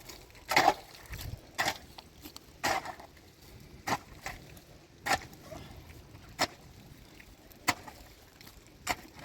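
A tool striking wood in steady, evenly spaced blows, about one every second and a quarter, as in chopping or hammering. The first blows are the loudest.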